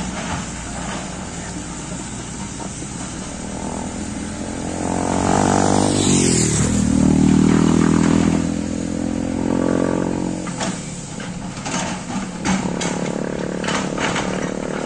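Engine running, swelling louder about five seconds in as its pitch dips and then climbs again, and easing back about ten seconds in. Scattered knocks and clanks follow near the end.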